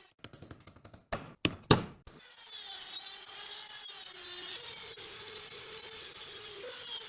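Three sharp knocks, then from about two seconds in a power tool starts and works steadily against a part of the rusty chaff cutter with a hissing, scraping sound.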